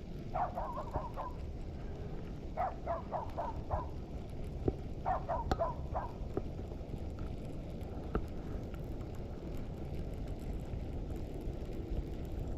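Three short runs of rapid, repeated bird calls, five or six notes each, in the first half, over a steady low rumble of wind noise; a few sharp clicks follow.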